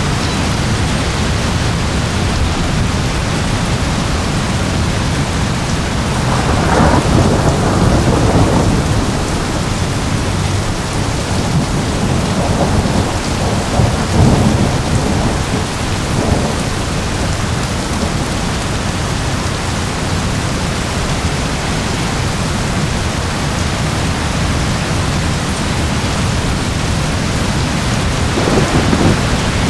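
Steady rain falling, with rolling thunder rumbling over it: one roll about six seconds in, another lasting several seconds in the middle, and a third near the end.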